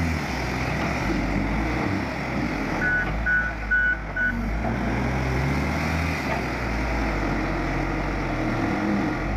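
Heavy vehicle engine running, its pitch rising and falling, with four short reversing-alarm beeps about three seconds in.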